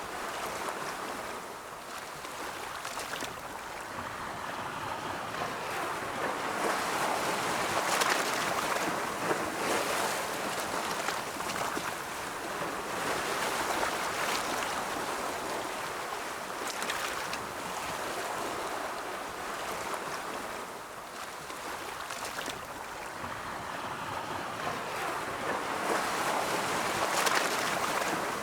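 Ocean waves rolling in: a continuous wash of surf that swells and ebbs every few seconds, with louder breaking crests several times.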